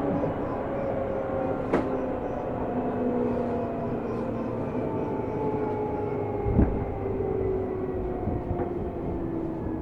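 Running sound inside a Seibu New 2000 series electric commuter train: a steady rumble with a motor whine that slowly falls in pitch as the train slows. There is a sharp click about two seconds in and a heavier thump from the wheels or track about six and a half seconds in.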